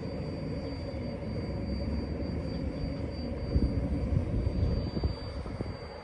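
A low, uneven rumble that swells about three and a half seconds in and eases off near the end.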